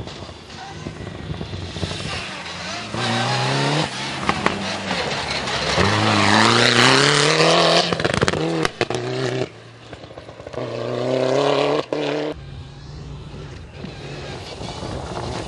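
Group N4 rally cars' engines revving hard under acceleration, the pitch climbing as each one pulls away, in several short stretches that change suddenly.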